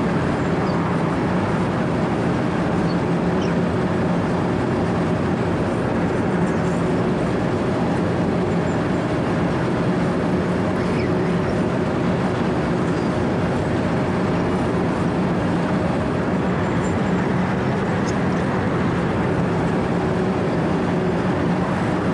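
Wirtgen W 120 CFi 4-foot cold milling machine running steadily: its diesel engine drones at a constant pitch under the steady grinding of the cutting drum chewing up asphalt.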